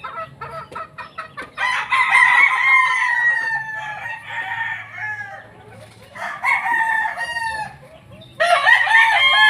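Gamefowl roosters crowing: three long crows, the first about a second and a half in and lasting about three seconds, another about six seconds in, and a third near the end, each falling in pitch as it trails off. Short clucks come before the first crow.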